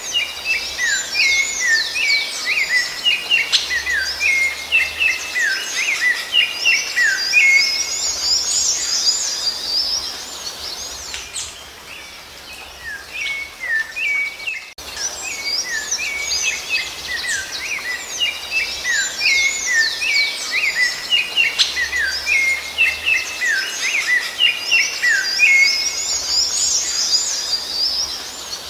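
Rufous-bellied thrush (sabiá-laranjeira) singing: quick, varied chirping and whistled phrases that thin out around the middle, after which the same passage repeats.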